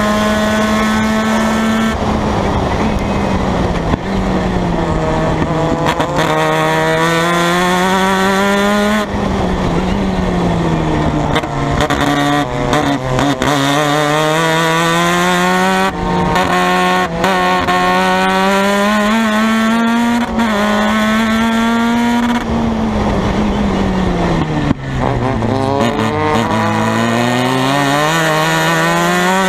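Formula Mazda race car's two-rotor Mazda rotary engine at racing speed, its note climbing through the gears, stepping down at each downshift and dipping low under braking, then climbing again, several times over.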